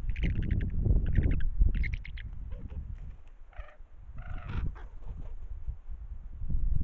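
Eagles calling during a fight: three bursts of rapid, high chattering calls in the first two seconds, then a few lower calls around the middle, over wind noise on the microphone.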